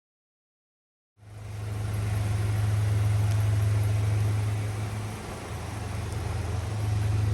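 Rover 75 Club Tourer estate car's engine idling steadily, with a strong low hum, coming in about a second in.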